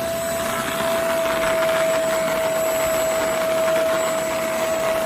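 PerySmith Xtreme V10 dust mite vacuum cleaner (700 W) running steadily: a constant motor whine over rushing air.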